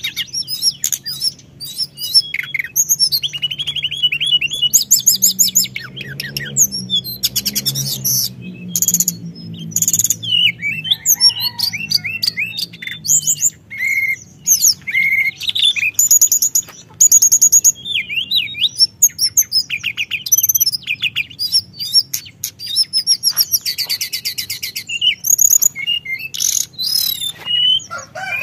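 Teledekan gunung singing nonstop in fast, high rolling trills and chattering phrases.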